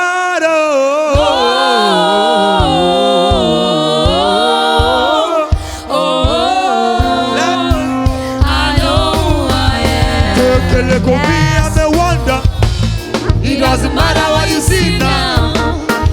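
Gospel worship music: a sung, melismatic vocal line over accompaniment, with a bass and drum beat coming in about halfway through.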